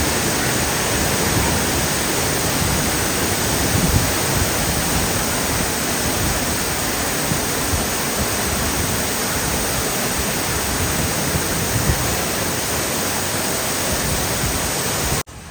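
Waterfall: a loud, steady rush of falling water, an even hiss with no let-up, which cuts off suddenly near the end.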